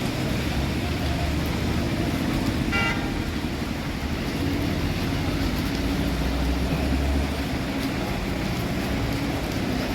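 Steady outdoor noise with a low rumble, and a short pitched toot about three seconds in, like a vehicle horn.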